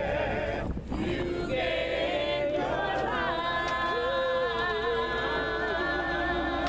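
Several voices singing together a cappella, with no instruments: a group of singers holding wavering, sustained notes in a gospel song, with a brief break just under a second in.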